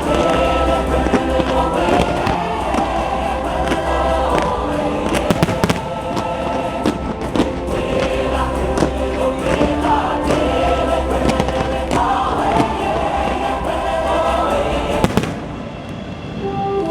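Fireworks bursting and crackling in many sharp bangs over the show's soundtrack of orchestral music with a wordless choir. A last sharp crack comes about fifteen seconds in, and the sound briefly drops after it.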